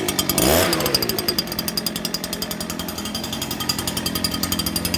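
Gas-powered two-stroke leaf blower engine running with a fast, even pulsing rattle, revving briefly about half a second in.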